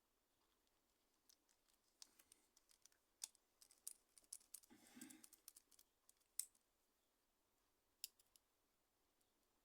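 Faint scattered clicks and taps of a Nokia N95 8GB mobile phone's small parts being handled during repair, with a brief rustle about five seconds in.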